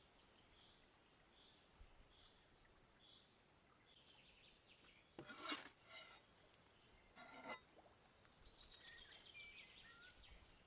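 Quiet forest ambience with songbirds calling: short repeated notes early on and a falling run of notes near the end. Two brief harsh rasping sounds come about five and seven seconds in.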